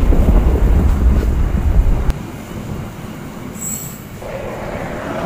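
Passenger train cars rolling past on the rails, with a heavy low rumble that drops off abruptly about two seconds in. A brief high wheel squeal comes a little after the middle, and a rushing noise starts to build near the end.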